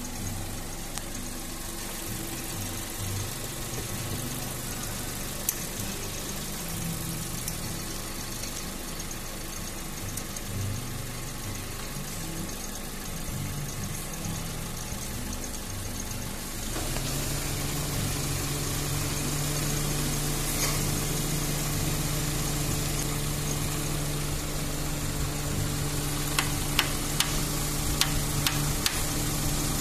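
Honda City Type Z engine idling while its ignition distributor is turned to set the timing: the idle note wavers unevenly at first, then about 17 seconds in it steps up and settles into a louder, steady hum. A few light metallic clicks near the end as a wrench works the distributor bolt.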